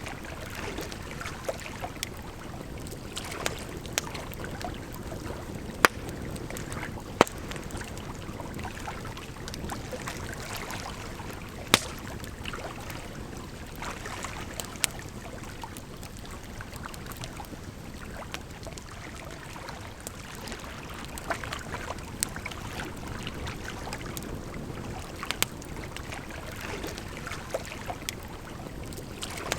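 Campfire crackling, with sharp pops at irregular intervals, a few of them much louder, over a steady rush of running water.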